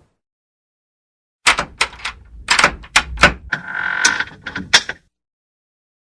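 A door being worked on its hinges: a rapid string of sharp clicks and knocks with a short hinge squeal in the middle, starting about a second and a half in and stopping about five seconds in.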